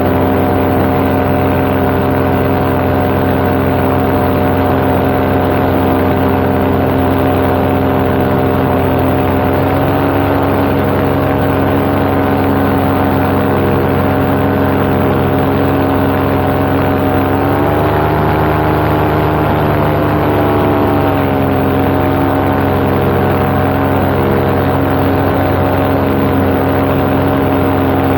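Paramotor's two-stroke engine and propeller running steadily in flight, heard close up from the pilot's seat. About two-thirds of the way through, the engine pitch rises for a few seconds, then settles back to its cruising note.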